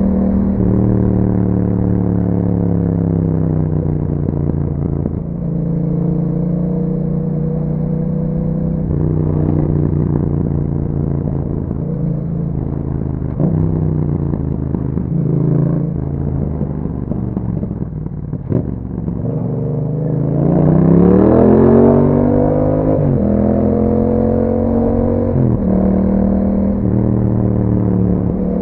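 2021 Yamaha MT-07's parallel-twin engine through an Akrapovic exhaust, riding at fairly steady revs, easing off about two-thirds of the way in, then accelerating hard with the pitch rising and dropping at a couple of upshifts near the end.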